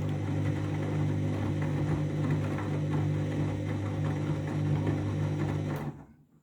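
Candy washing machine running with a steady low mechanical hum and a faint rattle, near the end of its Hygiene programme's heating phase. The hum dies away near the end.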